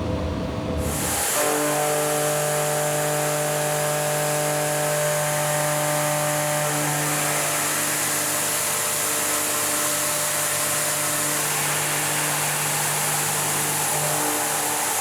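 Indexable shoulder milling cutter with three jagged triangular inserts cutting carbon steel at full 11 mm depth: a steady, even low hum at the cutter's tooth-passing pitch, with overtones, over a constant hiss. The cut starts about a second in and the hum stops near the end.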